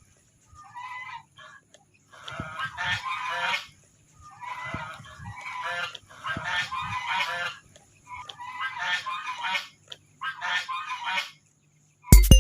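Geese honking, a run of repeated harsh calls in bursts of about a second, with short pauses between.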